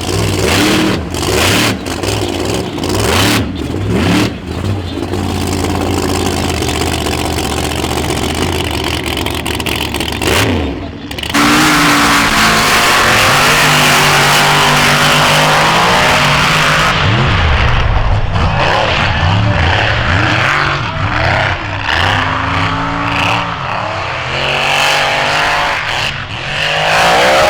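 Off-road vehicle engines revving and running under load, rising and falling in pitch. About eleven seconds in comes a loud, sustained full-throttle stretch that lasts several seconds.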